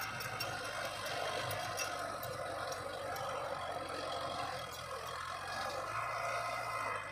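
Diesel engine of a heavy earthmoving machine, a dump truck or bulldozer, running steadily.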